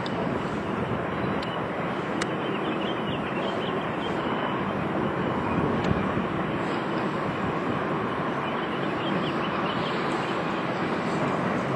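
Long manifest freight train rolling past: a steady rumble of steel wheels on rail, with a few sharp clicks and some faint high squeals.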